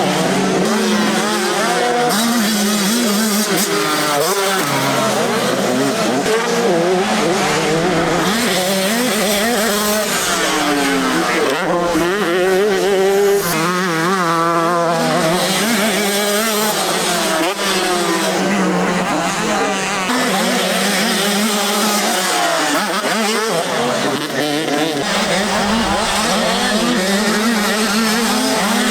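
Several motocross bikes racing, their engines revving up and down continuously with many engine notes overlapping.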